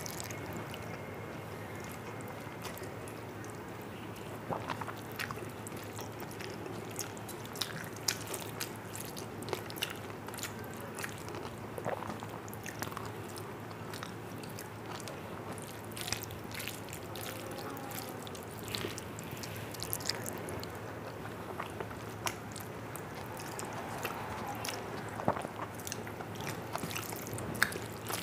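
Close-miked eating by hand: chewing and wet mouth sounds of rice mixed with dal, with many scattered small clicks and smacks, and fingers mixing food on a steel plate.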